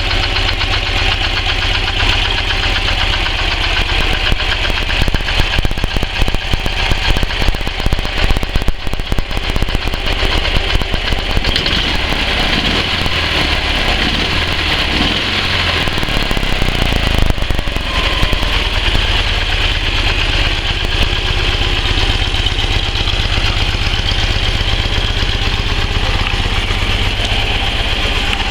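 Flat-twin engine of a customised Soviet-made heavy motorcycle running. It idles, is revved unevenly with throttle blips for a stretch in the middle, then settles back to a steady idle.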